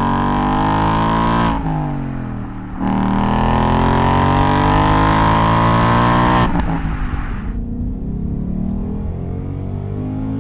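Mustang GT's 5.0 V8 through an XForce Varex chambered axle-back exhaust, accelerating hard with the pitch rising, dipping briefly between gears about a second and a half in, then pulling again. About six and a half seconds in it comes off the throttle and the note falls away into a lower burble.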